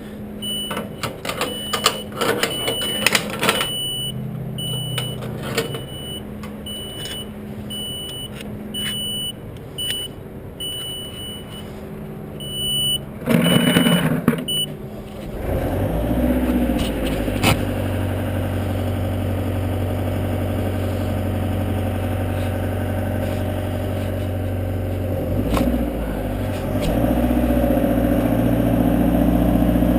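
A boom lift's warning beeper sounds in short regular beeps, with clicks and knocks of handling. About halfway through, the lift's engine starts and runs steadily, running louder and higher near the end.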